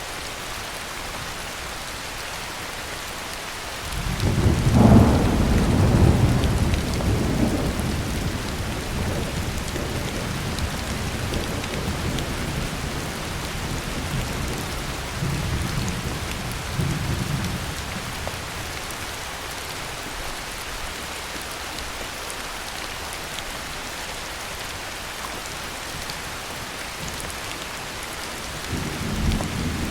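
Heavy rain falling steadily, with a roll of thunder that starts suddenly about four seconds in and rumbles on in waves for over ten seconds, and a shorter rumble of thunder near the end.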